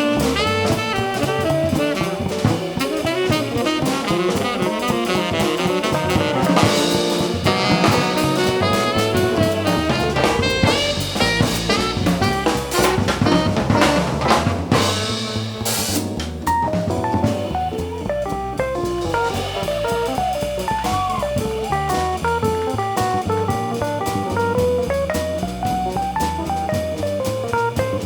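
Live jazz combo playing: a saxophone line over drum kit and bass. About halfway through the texture thins to a single-note solo line over the drums.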